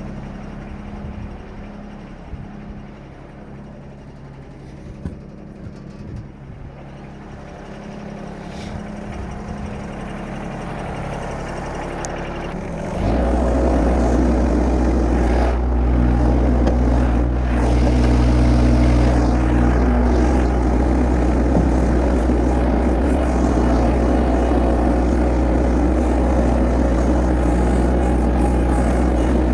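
An engine runs quietly and steadily with a few light clicks, then about 13 seconds in it jumps suddenly to a much louder, steady run with a deep hum.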